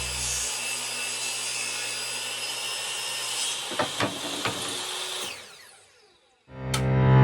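Steady rasping scrape of a hand tool working wood, with a few sharp knocks about four seconds in. It fades out, and music comes in near the end.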